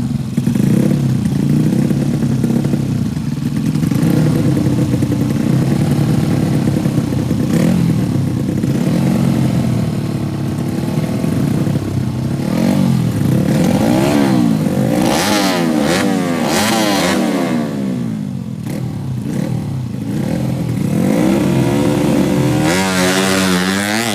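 Small racing motorcycle engines at a drag strip, loud and running steadily at first, then revving up and down over and over from about halfway, with one more sharp rise near the end.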